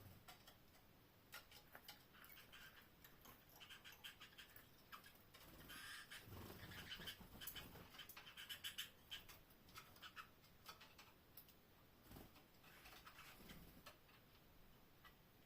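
Faint, scattered clicks and taps from pet canaries moving about their cage, with brief high sounds. The activity is busiest in the middle stretch and thins out toward the end.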